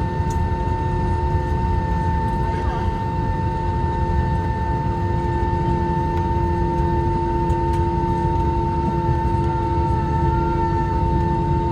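Airbus A321-231 taxiing on a single IAE V2500 engine: a steady low rumble with a constant whine.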